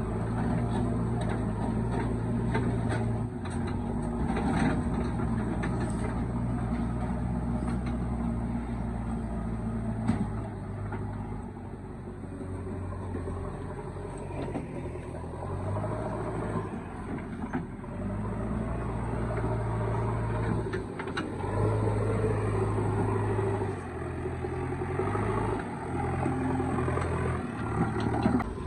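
Heavy diesel earth-moving machinery engine running, its speed stepping up and down every few seconds as it works under load, with a few sharp knocks in the first ten seconds.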